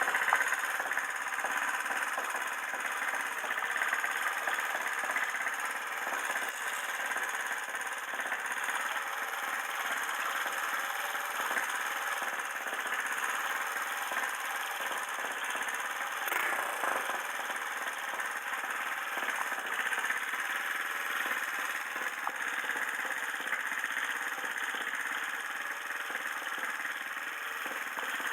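Bored-up Honda Jazz's single-cylinder four-stroke engine idling steadily, with no change in pace.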